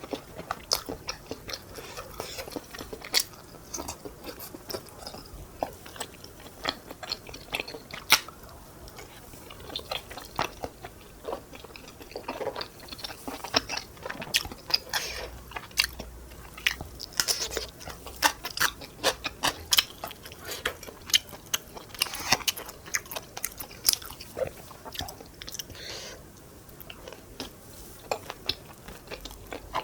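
A person eating: chewing and biting, with many short crunches and sharp clicks throughout.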